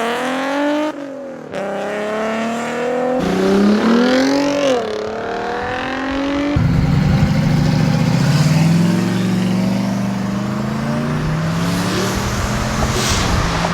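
Cars accelerating hard out of a car meet. For the first half, an engine revs up through the gears in several rising pulls, its pitch dropping briefly at each upshift. About halfway in, a louder, deeper engine comes in and rises slowly as it pulls away.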